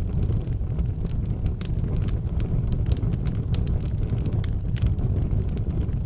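Wood fire burning in an outdoor fireplace, crackling with frequent sharp pops over a steady low rumble.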